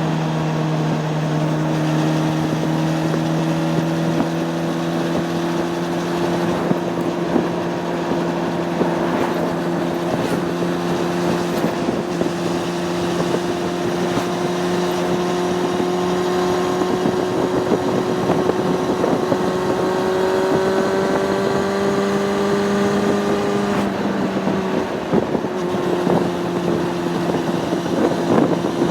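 Honda CB600F Hornet's inline-four engine pulling at steady road speed, its pitch climbing slowly and then dropping near the end, with wind rushing over the microphone.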